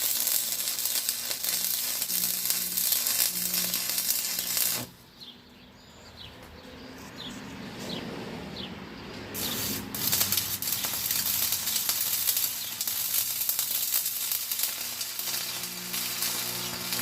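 Arc welder running a bead on steel: a steady crackling sizzle. It stops about five seconds in and starts again around nine seconds in for a second weld. The weld leaves slag to be chipped off.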